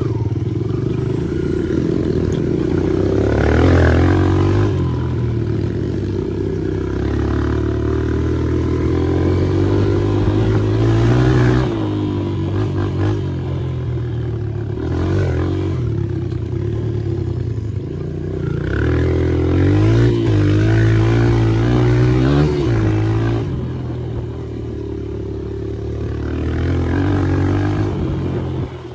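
Dirt bike engine revving up and down continuously as it is ridden, with some clattering knocks from the bike.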